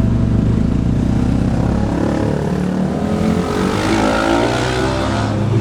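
A motor vehicle's engine running steadily with a low drone while riding along a road.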